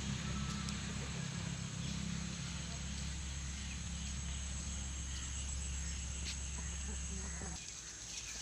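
A steady low motor hum that cuts off abruptly near the end.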